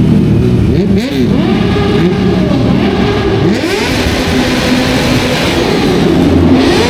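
Several motorcycles revving, their exhausts open with the dB-killer silencers removed: overlapping loud engine notes repeatedly rising and falling in pitch.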